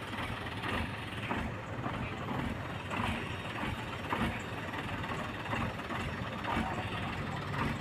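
Heavy truck engines running at low revs, a steady low hum broken by irregular metallic knocks and clatter.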